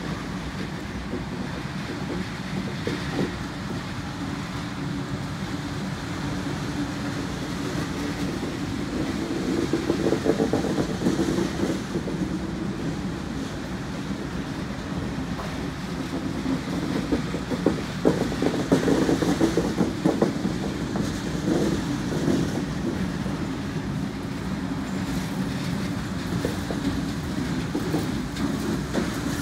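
Freight train's long lash-up of CN and BC Rail diesel locomotives passing close by: a steady rumble of the units and their wheels, with wheels clacking over the rail joints and swelling louder about ten seconds in and again around eighteen to twenty seconds.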